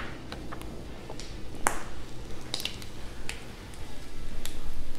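Diced ham frying on a hot steel flat-top griddle, fat crackling with scattered sharp pops. Near the end a spoonful of butter goes onto the griddle and the sizzle grows louder.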